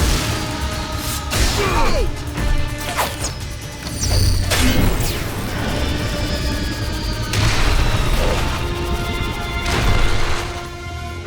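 Cartoon action-scene soundtrack: dramatic background music overlaid with swooshing sound effects and crashes, with a heavy low rumble underneath.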